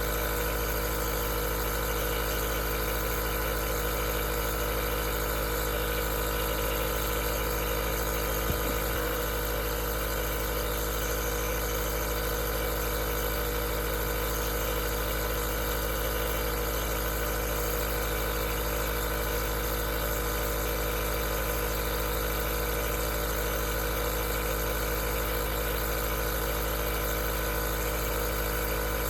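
Aerosol nebulizer's compressor running steadily: an even motor hum with a hiss that does not change, and one small click about eight and a half seconds in.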